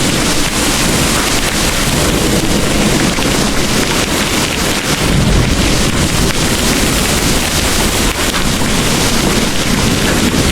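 Heavy rain pouring in a dense, steady hiss. A low rumble of distant thunder swells about halfway through.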